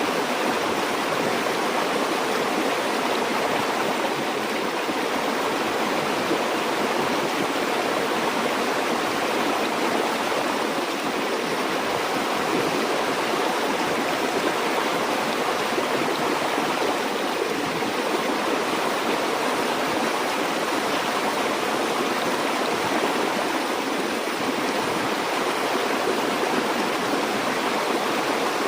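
A river or stream flowing steadily over rocks: a continuous, even rush of water with no breaks.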